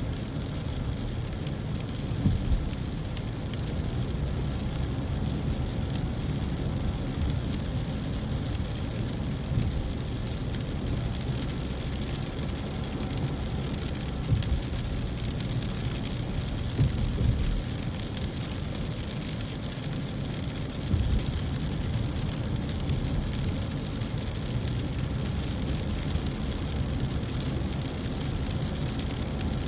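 Rain falling on a moving car: scattered drops ticking over the steady low rumble of the car on a wet road, with a few short, louder thumps.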